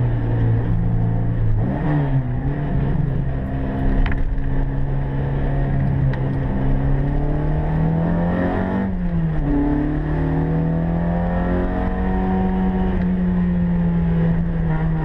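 Opel Kadett GT/E race car's four-cylinder engine pulling hard under load, heard from inside the cabin. The revs dip and climb again about two seconds in and again around nine seconds in, then hold steady and high.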